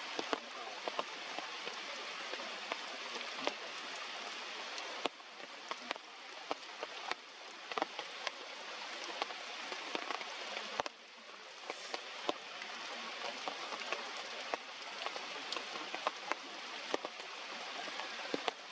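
Heavy rain falling as a steady hiss, with many scattered sharp drip taps. The hiss drops off abruptly twice, about five and eleven seconds in.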